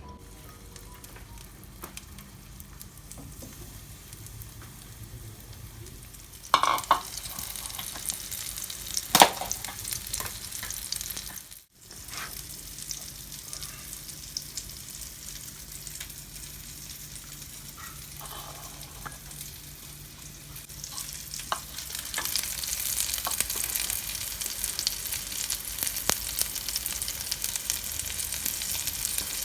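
Food sizzling in hot oil in a pan, with two sharp clanks in the first half, a brief dropout near the middle, and a sizzle that grows louder over the last several seconds.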